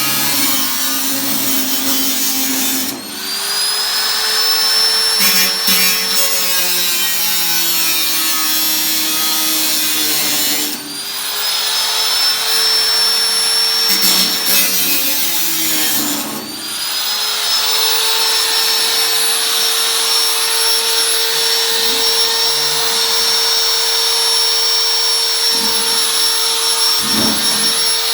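Electric power tool running continuously on the thin sheet steel of an 18-litre can, a steady motor whine with a high hiss. Three times, about 3, 11 and 16 seconds in, the whine sags and climbs back up in pitch as the motor spins up again; from then on it runs steady.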